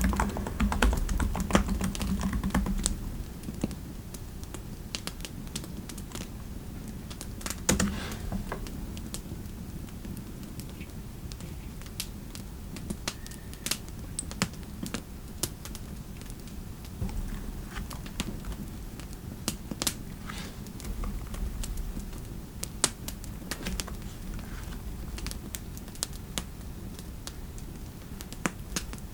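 Typing on a computer keyboard: irregular keystroke clicks over a steady low background hum, heavier and louder for the first few seconds.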